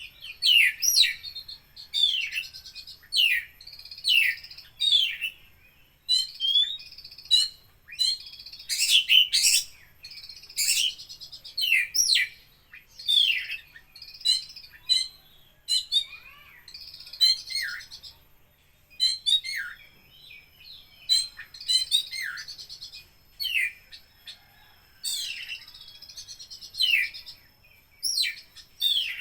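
Oriental magpie-robin (kacer) in full song: a long, varied run of loud whistled phrases, many falling in pitch, mixed with sharp clicking notes and phrases learned from other birds, with only brief pauses.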